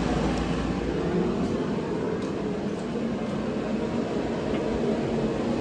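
Steady mechanical hum from a running machine, with a few faint ticks.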